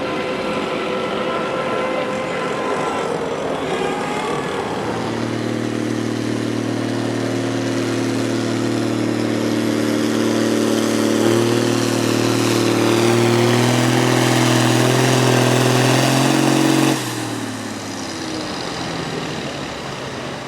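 Pulling vehicle's engine running hard under heavy throttle. After a few seconds of changing pitch it settles into a loud, steady note that climbs slightly, then drops away abruptly about seventeen seconds in.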